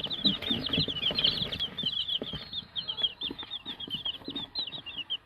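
A brood of young chicks peeping: rapid, overlapping high chirps, with scattered light taps among them.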